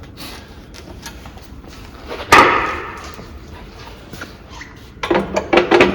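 A single loud metallic clank about two seconds in, with a brief ringing decay, as a steel lower strut bracket is handled on the coil spring compressor's frame. Near the end comes a quick clatter of smaller knocks.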